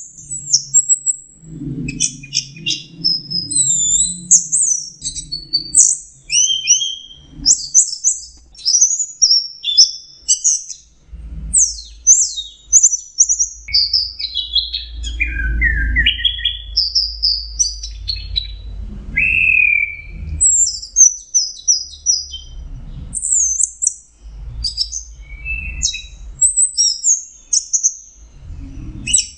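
Orange-headed thrush (anis merah) singing a long, unbroken run of varied, quick whistled and warbled phrases, high-pitched with rapid up-and-down glides: the relaxed, continuous 'teler' song that bird keepers prize.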